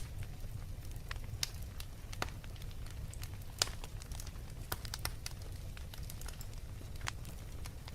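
Wood fire crackling, with sharp irregular pops over a steady low rumble of the flames.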